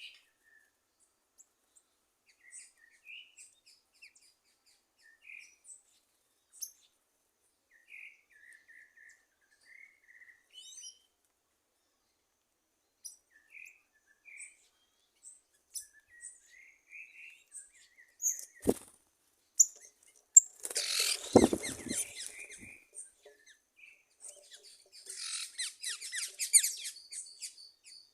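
Wild birds chirping, with short scattered calls and a dense burst of high twittering near the end. About two-thirds of the way through there is a sharp click and then a loud, rustling thump.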